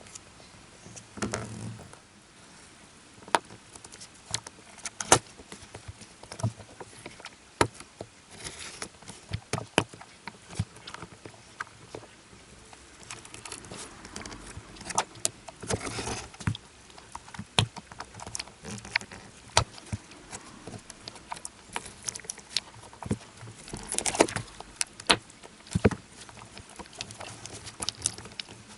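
Irregular small clicks, taps and short scrapes of hand tools and parts handled on a rugged smartphone being taken apart for repair.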